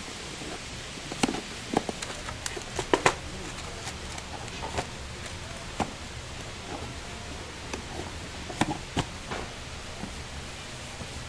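Food-stall handling noise: scattered sharp clicks and knocks of utensils and containers over a steady hiss. The knocks cluster in the first few seconds and come again near the end.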